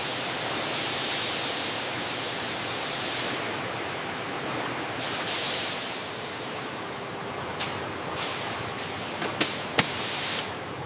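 A steady hiss, loudest in the first three seconds and softer after, with a few sharp clicks in the last three seconds.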